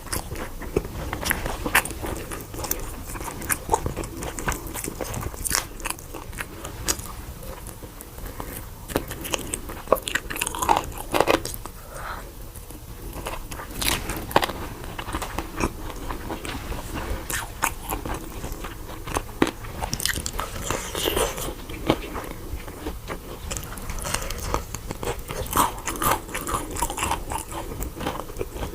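A person biting and chewing crispy fried chicken close to the microphone, with many sharp crunches, several a second.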